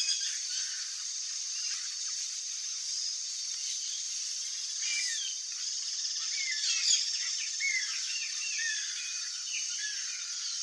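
Birds chirping: many short calls, thickest from about four seconds in, over a steady high-pitched drone.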